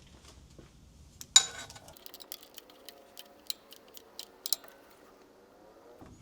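Ratchet clicking in short strokes, about four ticks a second after one sharp click, as a hose clamp is tightened on a leaking coolant hose.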